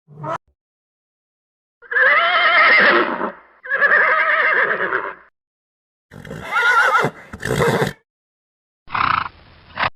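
A horse whinnying four times in a row, each call quavering in pitch and lasting one to two seconds, with short silences between.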